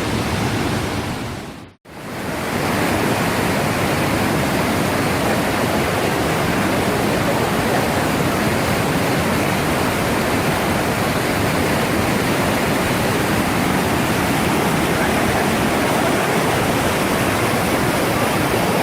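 Wachirathan Waterfall's heavy flow of water crashing down, a loud, steady rush with no pauses, broken only by a brief cut to silence about two seconds in.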